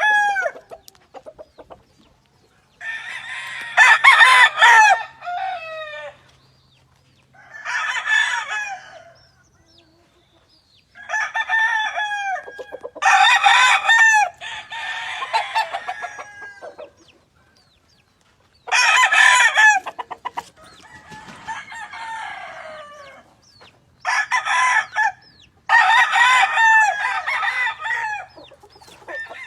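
Several gamefowl roosters crowing one after another, a long crow every few seconds, some overlapping.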